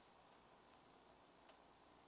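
Near silence: faint room tone with one faint click about one and a half seconds in.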